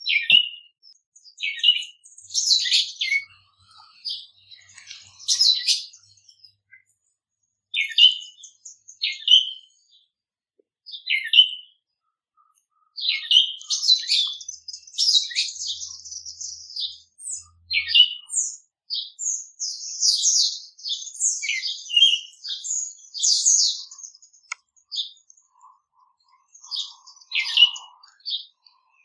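Small songbirds chirping: many short, high calls, sparse at first and busiest in the middle stretch.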